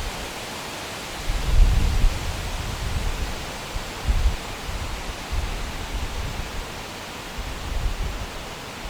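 Outdoor ambience: a steady broad hiss with irregular low rumbling gusts of wind buffeting the microphone, strongest about a second and a half in.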